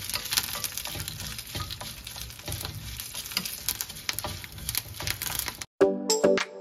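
Dals and whole spices roasting in a little oil in a stainless steel pan, crackling and sizzling as a wooden spatula stirs and scrapes them, with many small clicks. Near the end it cuts off abruptly and background music with clear pitched notes begins.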